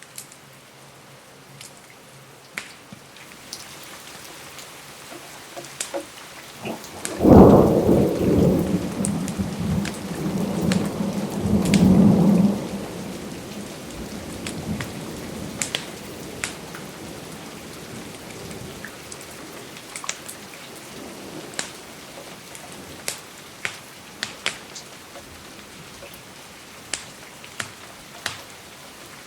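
Steady rain with scattered sharp ticks. About seven seconds in, a sudden loud thunderclap breaks out and rumbles on for about six seconds before fading back into the rain.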